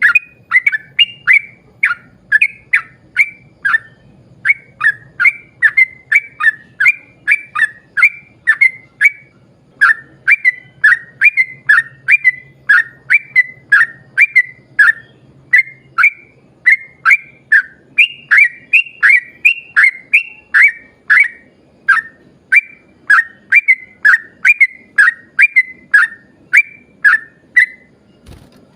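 Yellow-vented bulbul (trucukan) singing a long, fast string of short, clear, falling whistled notes, about two to three a second, with a brief pause about a third of the way in.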